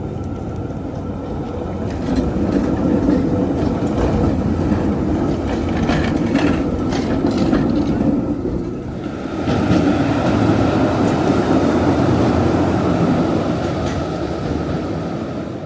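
A tram passing on steel rails: its wheels rumble, with a run of clicks over the rail joints. The sound swells, dips briefly, swells again and fades away near the end.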